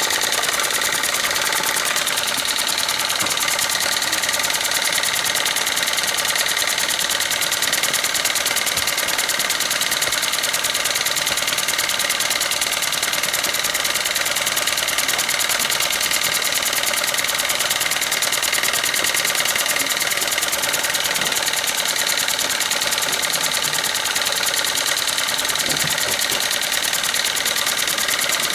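Small model steam engines running steadily at speed, with a fast, even clatter.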